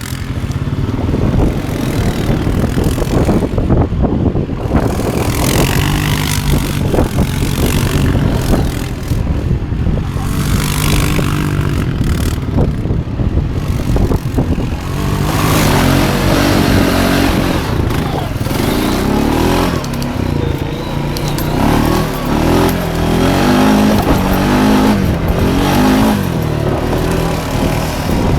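Quad bike engine running hard and revving, its pitch rising and falling over and over as it spins donuts; the revving is clearest in the second half.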